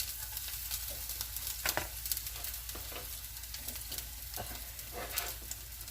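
Hot oil sizzling and crackling in a very hot pan heated for searing, with a few leftover fried bits still in it. A steady hiss with scattered sharper pops.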